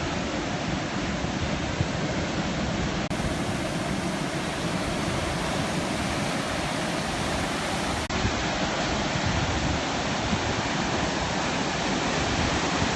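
Heavy sea surf: a continuous, even rush of breaking waves, with no single wave standing out.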